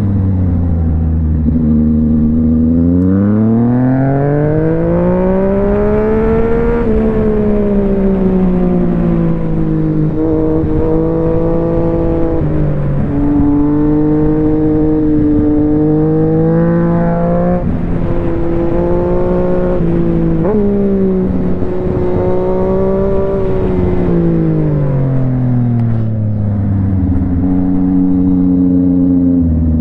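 Yamaha MT-09's inline three-cylinder engine running, starting at low revs and climbing for a few seconds before easing off. It then holds fairly steady with a few quick jumps in pitch and drops back to low revs near the end.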